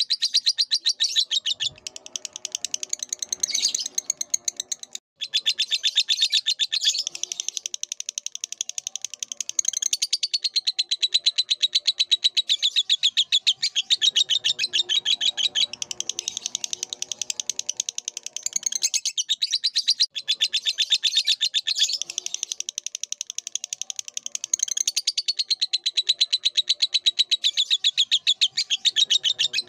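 Lovebird singing a long, rapid chattering trill of high-pitched chirps, with brief breaks about five seconds in and again near twenty seconds.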